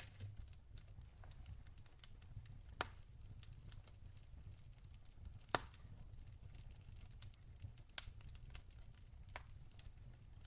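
Log fire crackling faintly, with scattered sharp pops, two louder ones about a quarter and halfway through, over a low steady rumble.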